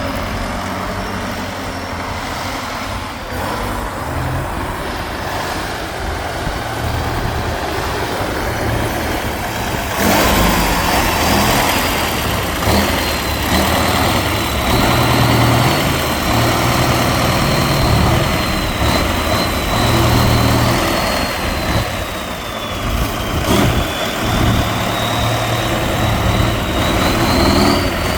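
Heavy off-road trial truck's diesel engine labouring and revving in uneven surges, with a thin high whine that slowly falls and then rises again. The sound turns suddenly louder and fuller about ten seconds in.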